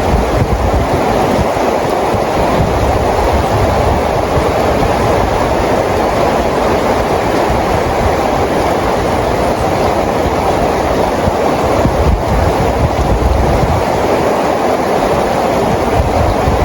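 Steady rain: an even rushing hiss with a low rumble underneath, unchanging throughout.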